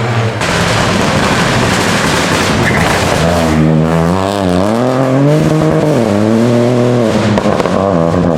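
Rally car engine running hard, with a rushing noise over it for the first few seconds. From about three seconds in, the engine note stands out clearly, its pitch rising and dropping several times with throttle and gear changes.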